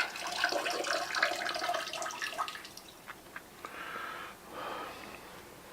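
Water running and splashing in a small bathroom, falling away about three seconds in.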